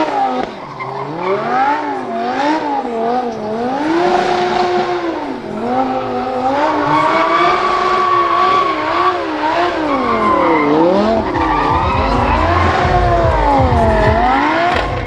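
Drift car engine revving up and down again and again as the throttle is worked through a drift, with tyres squealing. A low rumble joins in from about eleven seconds in.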